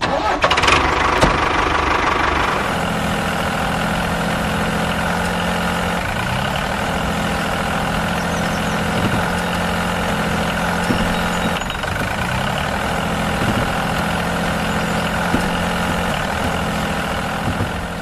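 Tractor engine starting up, then settling into a steady running note after about two and a half seconds.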